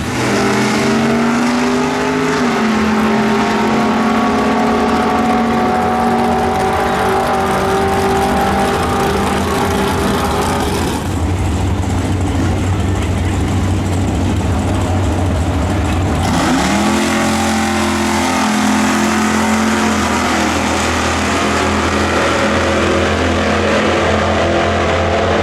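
Racing muscle car V8 engines running hard at high revs. The engine note climbs sharply right at the start and again about two-thirds of the way through, then holds steady. The sound changes abruptly twice in between.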